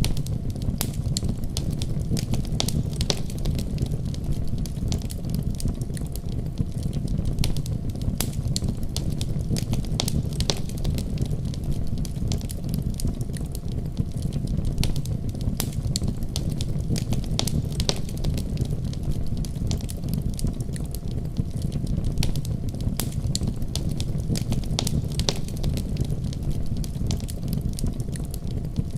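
Wood fire crackling, with frequent sharp pops and snaps, over a steady deep rumble of a snowstorm wind.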